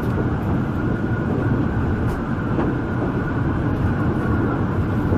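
Alishan Forest Railway train running on the track: a steady low rumble of the moving railcar, with a couple of faint clicks about two seconds in.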